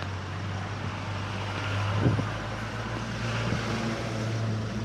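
Street traffic: a motor vehicle's engine running close by with a steady low hum over road noise, and a short knock about two seconds in.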